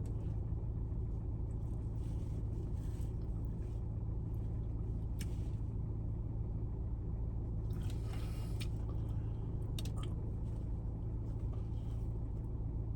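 A steady low hum, with a few faint rustles and clicks.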